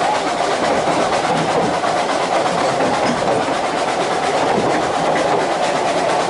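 Narrow-gauge Ffestiniog Railway train running along the line: a steady noise of wheels on rail, even throughout with no distinct beats.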